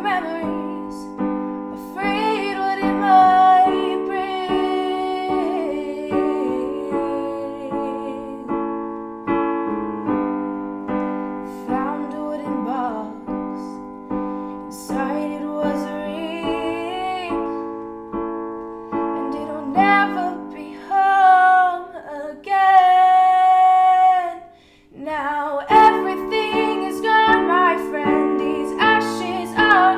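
A woman singing with piano accompaniment, with one long held note a little past the middle and a brief pause just before the last few seconds.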